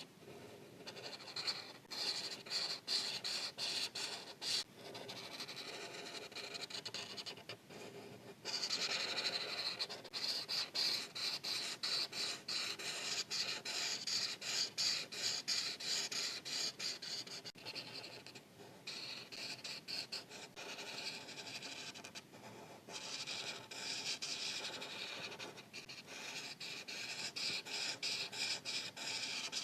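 Marker tip scratching across paper in rapid back-and-forth coloring strokes, with brief pauses between passes. The scratching gets louder about eight seconds in.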